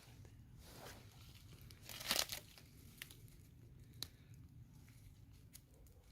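Footsteps in dry leaves: faint scattered crunches and rustles, the loudest about two seconds in.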